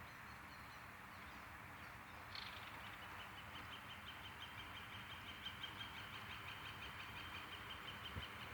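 A bird singing one long, high, rapid even trill that starts a couple of seconds in and continues for about six seconds, over a faint steady outdoor hiss.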